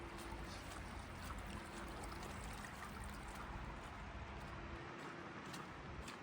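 Steady rain with running, trickling water, and scattered light ticks through it.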